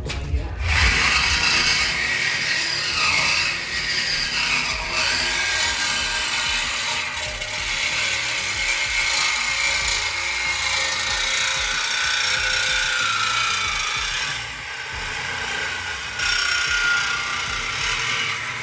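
A power tool cutting through a car's exhaust pipe to take out a muffler, running steadily with a wavering metallic squeal, easing off briefly near the end.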